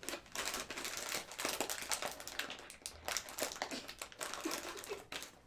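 Crinkly plastic snack-chip bag being handled and crumpled, with irregular rustling and crackling while it is being opened.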